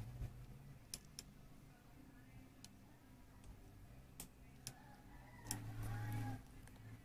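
Faint, scattered clicks and light taps of the opened induction cooker's parts and tools being handled, several single clicks a second or more apart.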